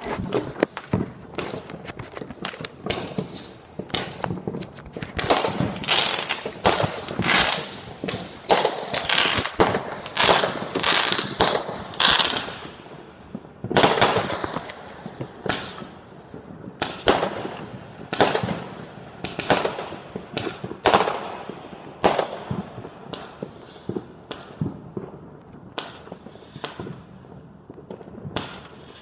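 Fireworks going off: a rapid run of loud bangs and pops, one after another, coming thickest in the first half and thinning out later.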